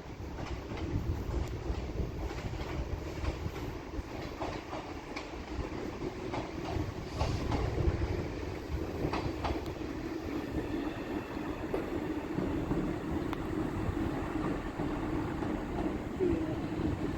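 A train running along the track, its wheels clicking over rail joints against a steady rumble and hum. The clicks come often at first and thin out about ten seconds in.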